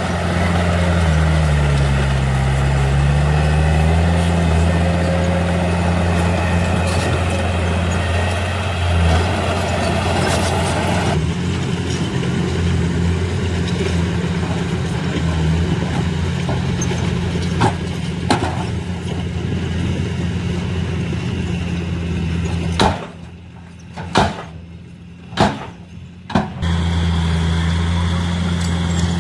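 Heavy diesel engine of earthmoving machinery running steadily, its pitch sagging briefly under load near the start, with a few sharp knocks. Near the end the engine sound drops away for about three seconds, broken by several clicks, then returns.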